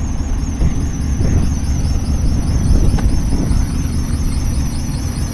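Steady low rumble, with a faint wavering high whine above it and a few light knocks.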